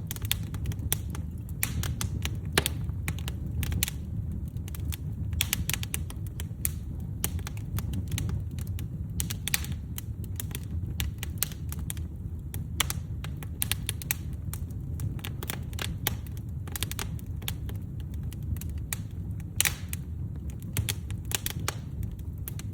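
Firewood burning in a fireplace: dense, irregular sharp crackles and pops from the logs over a steady low hiss-and-rumble of the fire.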